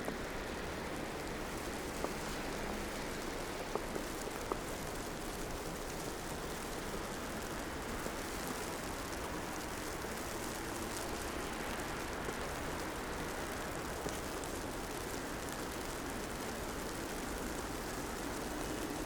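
Steady hiss of a snowy city street: wet snow falling and traffic on slushy roads, with a few light ticks and a vehicle's low hum coming up near the end.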